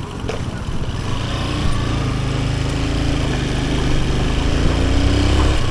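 Small motorcycle engine running while under way, getting a little louder and higher in pitch over the first few seconds, then holding steady.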